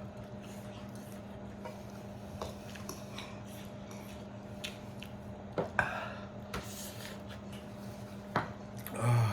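Eating sounds from a grilled whole chicken being pulled apart by hand and eaten: small wet squishes, clicks and knocks of food and tableware, with a few louder moments about six seconds in and near the end. A faint steady hum lies underneath.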